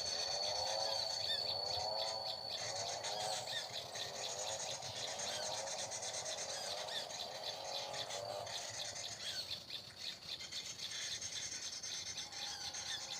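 Birds calling outdoors: a run of repeated, quickly rising-and-falling low call notes that fades out after about eight seconds, over many small high chirps. A thin, steady high tone sounds during the first two seconds.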